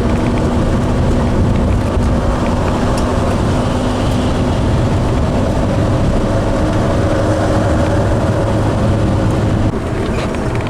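Class A motorhome cruising on the interstate: a steady engine drone and road noise heard from inside the cab. The level drops a little near the end.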